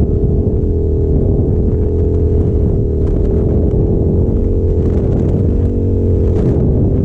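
Yamaha FZ-07's 689 cc parallel-twin engine running steadily at an even pitch, without revving up or down.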